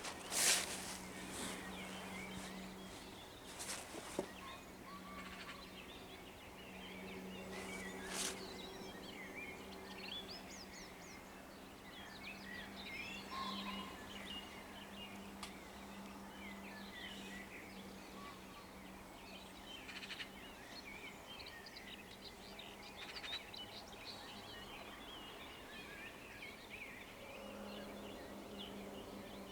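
Dawn chorus of many songbirds chirping and singing over a steady low hum, with a couple of sharp, louder sounds about half a second in and about 8 seconds in.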